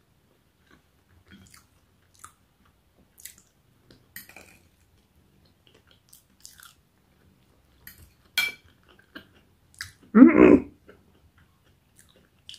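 Close-up eating sounds of a crispy Yorkshire pudding being bitten and chewed: scattered small crunches and mouth clicks, with a sharper click about eight seconds in. About ten seconds in comes a short, loud, voiced hum.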